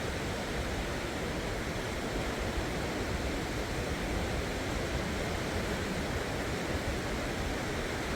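Steady, even rush of sea surf breaking on the shore.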